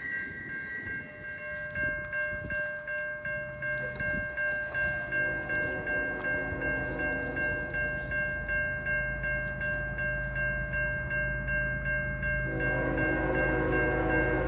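A diesel-hauled train approaching on the CN Bala Subdivision. The locomotive's rumble grows louder from a few seconds in, over steady ringing tones that pulse regularly. More tones join near the end.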